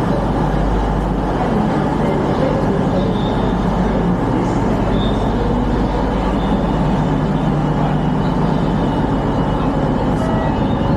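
Class 221 diesel tilting train running, with a steady low rumble and hum.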